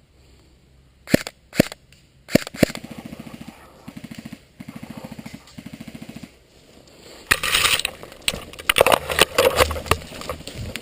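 Electric airsoft gun (AEG) firing several short full-auto bursts, each a rapid, even run of shots, after a few sharp clicks. A louder stretch of clattering noise follows near the end.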